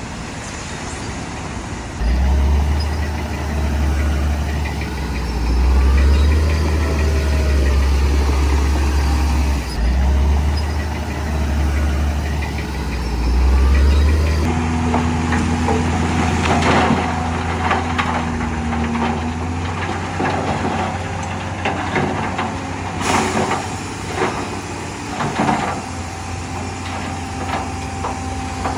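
Heavy diesel construction machinery running with a deep, steady engine drone. About halfway through, the sound changes abruptly to a lighter engine hum broken by repeated metallic clanks and knocks.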